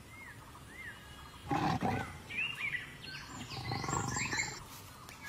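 A leopard gives two rasping, grunting calls, about a second and a half and four seconds in. Birds chirp repeatedly throughout.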